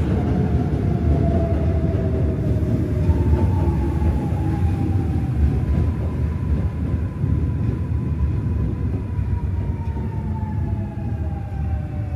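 Seoul Subway Line 1 electric train running at the platform: a steady low rumble with thin motor whine tones that slowly fall in pitch.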